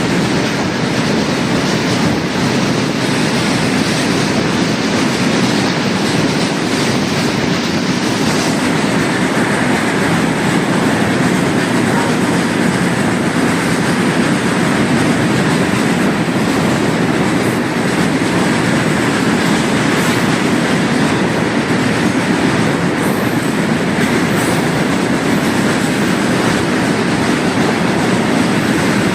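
Train rolling by on the rails: a steady rumble with the clickety-clack of wheels over rail joints.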